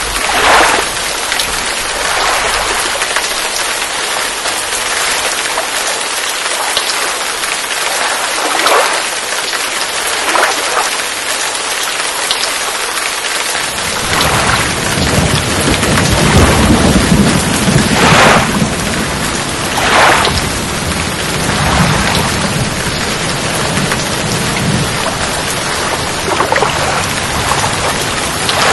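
Steady rain hissing on the water and on the camera, with a paddle splash every few seconds. About halfway through, strong wind buffeting the microphone adds a heavy low rumble.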